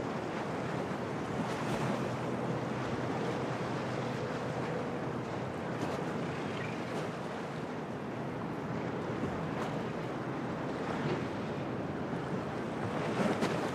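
Storm wind and waves washing against a harbour, a steady rushing noise with a slightly louder surge near the end.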